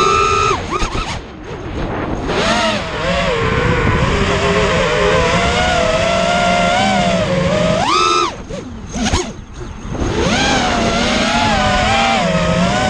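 FPV racing quadcopter's brushless motors whining, the pitch rising and falling with the throttle. There are sharp throttle punches at the start and about eight seconds in, and brief throttle drops around one to two seconds in and again around nine seconds.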